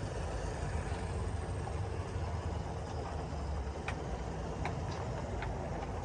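O scale model train running along its track with a steady low rumble, and three sharp clicks in the second half, about three-quarters of a second apart, as its wheels cross rail joints.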